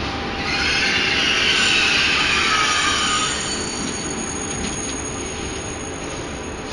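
High-speed passenger train rolling slowly along the platform, a steady rumble with a high-pitched squeal from the wheels or brakes from about half a second in that fades out after about three seconds.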